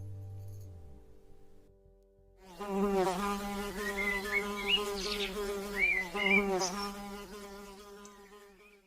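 The last notes of music fade out, then after a brief pause an insect buzzes for several seconds, a steady low drone wavering in pitch, with a few short high chirps over it partway through.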